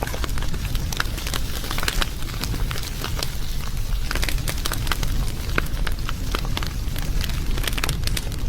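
Wood fire crackling: many small, sharp pops and snaps over a steady low rumble of burning.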